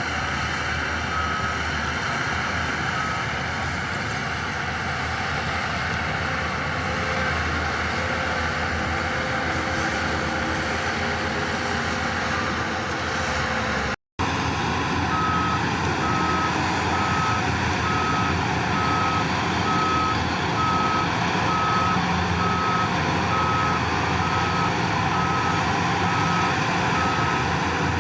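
Heavy earthmoving machinery running steadily with a reversing alarm beeping at an even pace of about one beep a second, faint near the start and clear through most of the second half. The sound cuts out briefly about halfway.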